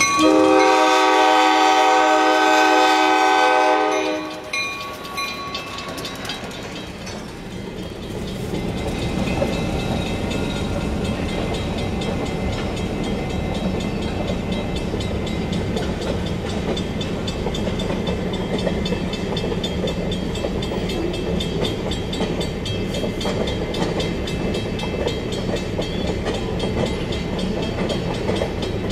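Diesel locomotive's air horn sounding one long, loud chord for about four seconds, then the steady rumble and clatter of passenger cars rolling past over the rails.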